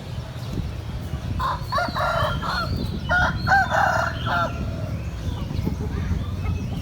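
A rooster crowing, heard twice: about a second and a half in, and again at about three seconds. Small caged birds chirp faintly over a steady low rumble of market noise.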